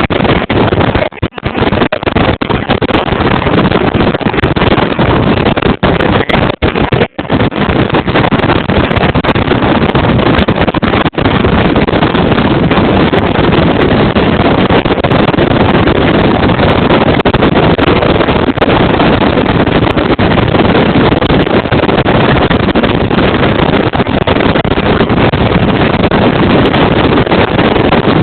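Wind rushing over a phone's microphone in the open bed of a moving pickup truck, mixed with the truck's road noise. It is a loud, steady rush, broken by a few brief dropouts in the first several seconds.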